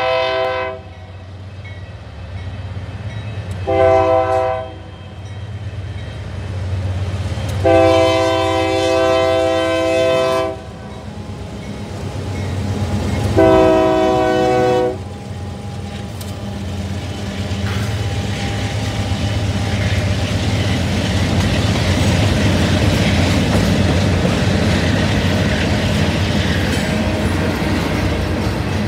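Diesel freight locomotive's multi-note air horn sounding for a grade crossing: a blast ending just after the start, a short blast about four seconds in, a long blast from about eight to ten seconds, and another blast around thirteen to fifteen seconds as the locomotive reaches the crossing, over the engine's low rumble. After that the freight cars roll past with a steady rumble and clatter of wheels on rail.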